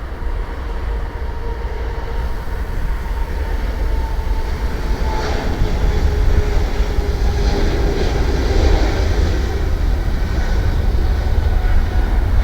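Jet airliner taking off: a deep engine rumble that builds steadily louder, with a faint engine whine that falls in pitch as the plane passes.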